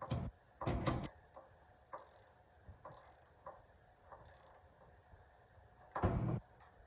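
Knocks and clatter of parts being handled on a workbench: a sharp clatter at the start, a longer one just under a second in, and another about six seconds in, with three short hissing scrapes between them.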